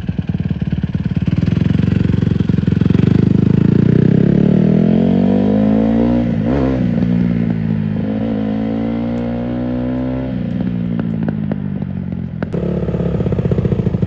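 Honda CRF150R dirt bike's single-cylinder four-stroke engine revving as it is ridden, the pitch climbing over the first few seconds, easing off, blipping up and down sharply about six and a half seconds in, then falling away and running steadier.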